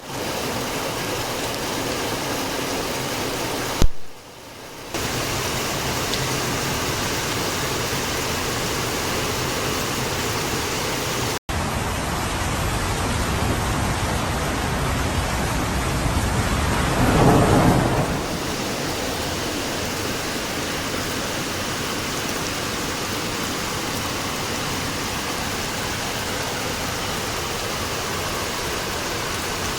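Rain falling steadily, with a low rumble of thunder that swells and fades about seventeen seconds in. A sharp click about four seconds in is followed by a second of quieter sound, and the sound drops out briefly a little before halfway.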